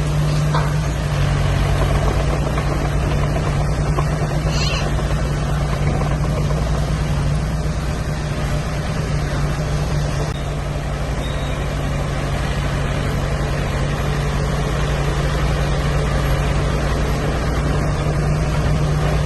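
Heavy diesel earthmoving machinery running steadily, a constant low engine drone with no change in pace, and a brief high squeak about five seconds in.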